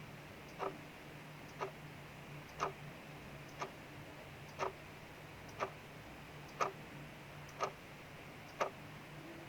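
Clock ticking evenly about once a second, over a faint steady hiss of rain.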